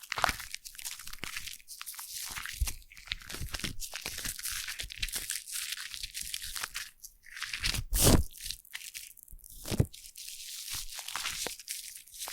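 Foam crackling and popping close to the microphone, a dense fizzing crackle of tiny bursting bubbles, with two louder squishes about eight and ten seconds in.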